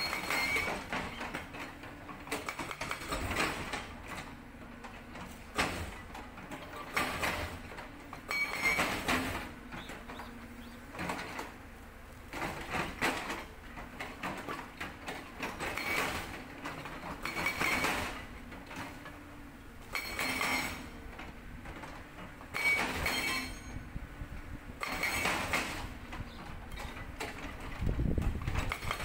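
Sangdo hydraulic breaker on a CAT 320D excavator hammering rock in repeated short bursts of rapid blows, one to three seconds apart, over the excavator's engine running steadily.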